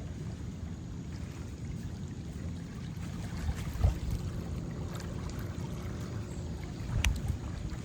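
Low rumble of wind on the microphone mixed with moving river water, with two brief knocks about four and seven seconds in.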